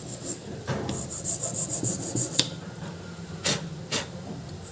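An iron hand tool scraped back and forth over a small battery's metal terminal, roughening it so that solder will take, with a few sharp clicks of the tool knocking against it.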